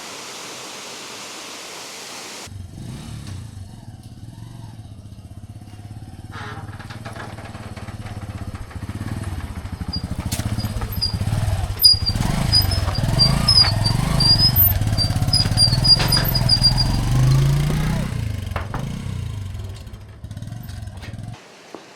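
An engine running with a low rumble that grows louder through the middle, with faint high chirps over it; it starts abruptly after a steady hiss and cuts off just before the end.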